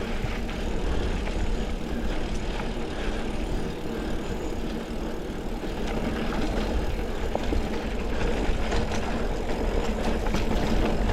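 Mountain bike riding over a dirt trail: steady wind rumble on the microphone and rolling tyre noise, with scattered clicks and rattles from the bike, more of them in the second half.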